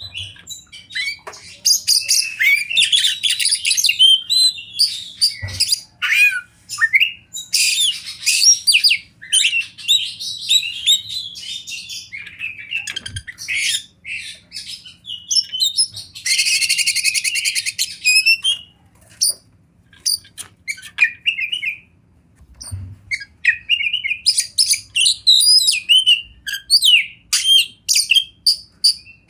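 Oriental magpie-robin singing a fast, varied song of whistles and chirps, with a harsh buzzing rasp lasting about two seconds, sixteen seconds in, and a brief lull a few seconds later.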